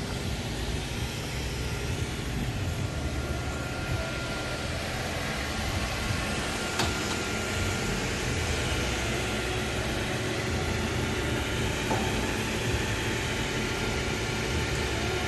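Precision table saw running with its blade spinning: a steady machine whir, with one brief click about seven seconds in.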